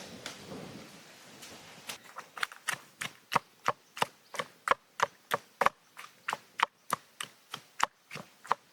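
Rustling as food is handled, then a knife chopping on a cutting board: a steady run of sharp knocks, about three a second, starting about two seconds in.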